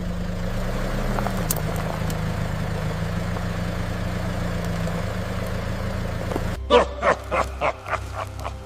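A vehicle engine running steadily with a low, even hum that cuts off abruptly about six and a half seconds in. A quick run of short pitched notes follows near the end.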